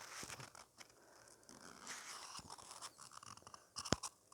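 Faint scratchy rustling close to the microphone, with one sharp click just before the end.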